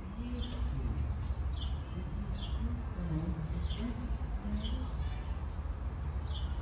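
A bird calling repeatedly with short, high, downward-sliding chirps, about one a second.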